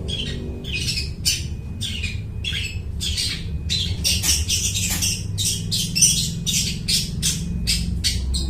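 Long-tailed shrike (cendet) in full song, a fast run of harsh, scratchy notes about three a second, mimicking other birds' calls, over a low steady hum.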